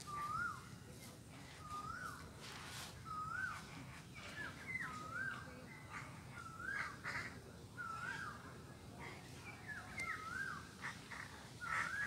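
A bird repeating a short call that rises and dips, about once a second, with shorter, sharper chirps in between.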